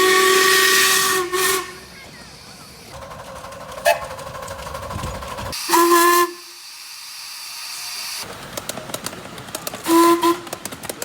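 Steam locomotive whistle blowing: a blast that ends about a second and a half in, then a short toot, with two more short toots about six and ten seconds in, over hissing steam.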